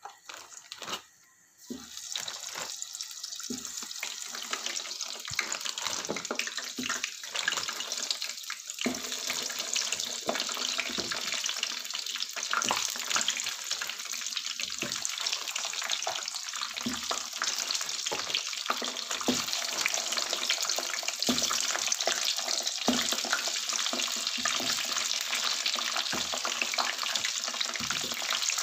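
Samosas deep-frying in hot oil in a pan: a dense, steady sizzle that starts about two seconds in, as the first samosa goes into the oil, with frequent pops and crackles. It grows a little louder as more samosas are added.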